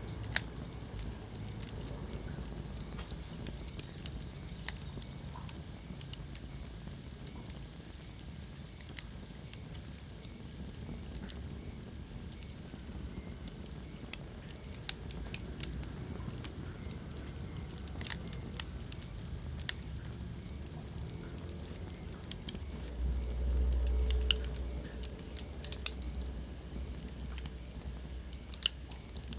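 Wood fire crackling: irregular sharp pops and snaps over a low, steady rumble of burning, with the rumble swelling louder for a couple of seconds about three-quarters of the way through.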